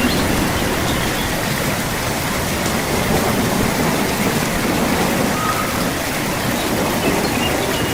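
Steady rainfall, an even hiss of rain with no letup.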